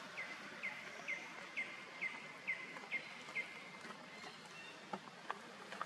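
A bird calling: a run of eight short chirps, each falling slightly in pitch, about two a second, that stops about halfway through. A few sharp clicks follow over steady outdoor background noise.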